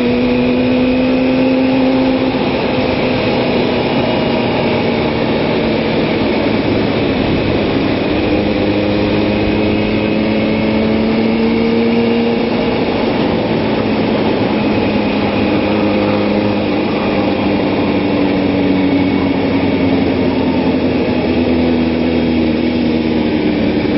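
Kawasaki ZX-6R inline-four sport-bike engine running at a steady part throttle through a corner, its pitch drifting slowly up and down as the throttle is held and gently rolled on, with wind noise behind it.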